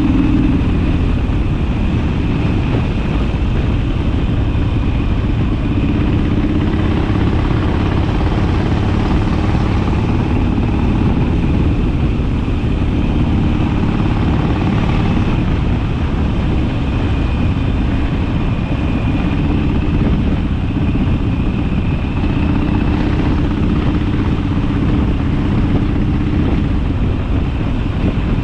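Harley-Davidson Sportster's V-twin engine running on the move, a steady loud drone whose pitch shifts up and down a few times with speed.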